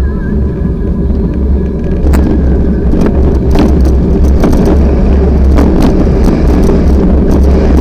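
Strong wind buffeting the microphone, a loud, continuous low rumble with scattered sharp clicks.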